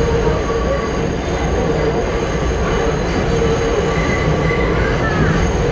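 1987 Westinghouse R68 subway car running through the tunnel, heard from inside the car: a loud, steady rumble of wheels on rail with high, steady squealing tones over it.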